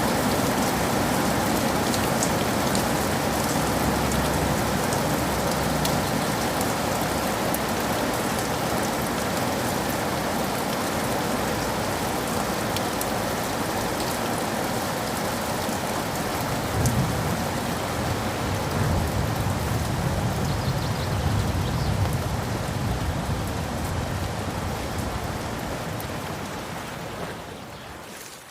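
Steady rain with scattered drop ticks, and a low roll of soft thunder swelling about two-thirds of the way through. The whole sound fades down near the end.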